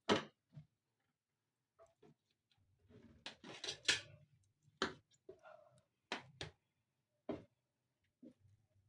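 Scattered light clinks and knocks of serving utensils against plates and dishes as food is dished out, about a dozen irregular taps with a small flurry near the middle.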